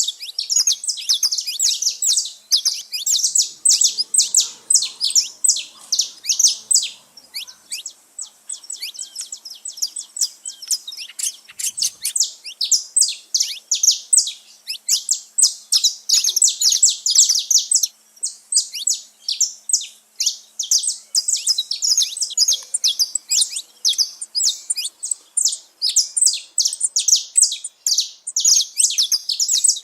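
Saffron finches singing and chirping together: many quick, high notes overlapping almost without pause, a little sparser for a few seconds in the middle.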